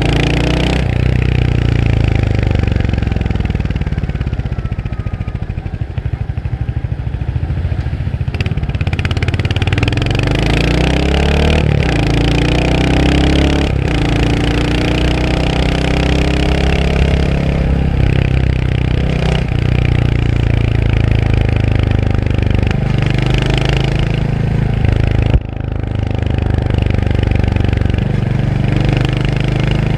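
Royal Enfield Hunter 350's 349 cc single-cylinder engine pulling through the gears, its note rising with each burst of throttle and breaking briefly at the shifts. It eases off to a lower, quieter note around 4 to 8 seconds in, then accelerates again several times, with a sharp throttle-off and shift a little before the end.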